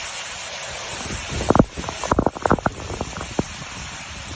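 Steady rush of storm wind and rain with wind buffeting the microphone, broken in the middle by a quick cluster of sharp taps and knocks.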